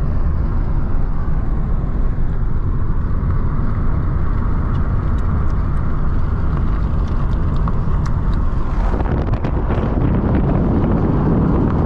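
Small-engine vehicle running steadily, heard from on board while riding. About nine seconds in, the sound changes and turns rougher and fuller.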